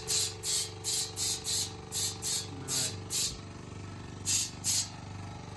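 Short repeated blasts of hissing compressed air, about two to three a second with a pause partway through, as air is pushed into a tractor tyre whose bead has not sealed on the rim. A steady low engine hum runs underneath.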